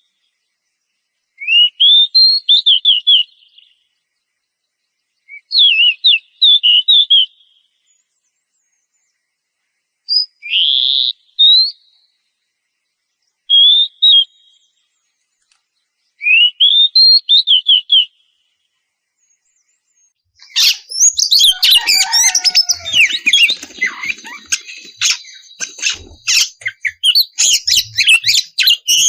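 Oriental magpie-robin (kacer) singing. At first it gives short phrases of rapid whistled notes every few seconds, then from about two-thirds of the way in a dense, unbroken run of fast, varied song.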